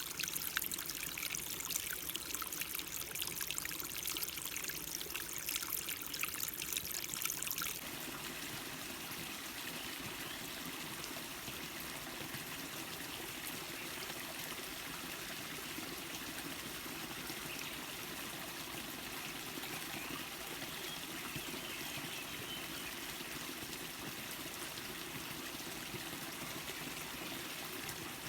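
A stream's water flowing over rocks. For the first eight seconds or so it is a splashy, trickling run. Then it changes suddenly to a steadier, smoother flow.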